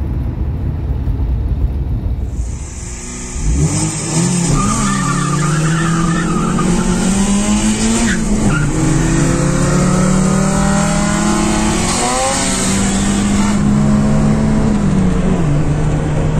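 Chevrolet Cobalt engine heard from inside the cabin, accelerating hard down a drag strip. After a few seconds of low rumble, the engine note climbs and drops back several times as it is run up through the gears, over steady road and wind noise.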